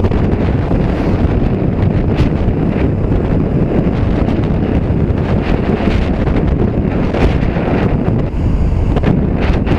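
Wind rushing and buffeting over the microphone of a motorcycle ridden at speed, a steady dense rush that hides most of the engine.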